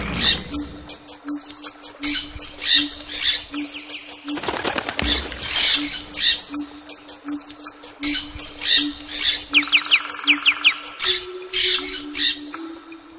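Birds calling: repeated short, harsh squawks, with a quick run of rising chirps about ten seconds in, over a faint low steady hum.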